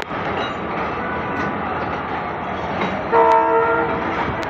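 Pakistan Railways passenger coaches rolling slowly into the platform with a steady rumble of wheels on rails. About three seconds in, a train horn gives one short blast of under a second, the loudest sound.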